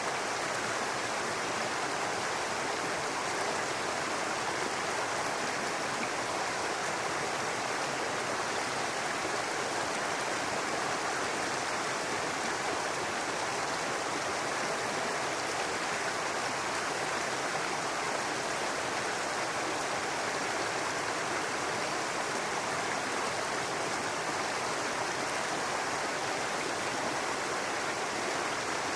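A small brook babbling and running over rocks, a steady even rush of water that stays constant throughout.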